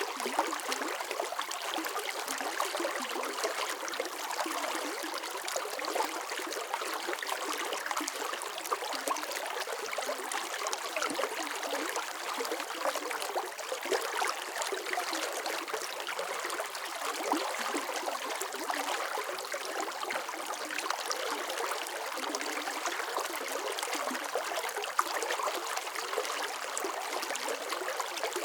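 Water running in a steady, even flow, with a fine splashing and trickling texture and no low rumble.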